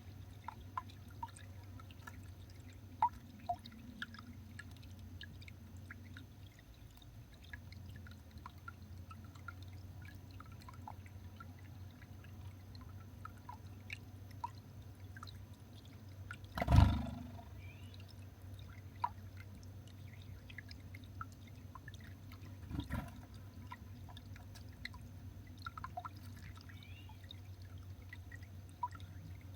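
Small garden birds at a feeder: scattered light ticks of pecking at seed over a low steady hum, with a sharp knock about seventeen seconds in and a smaller one about six seconds later.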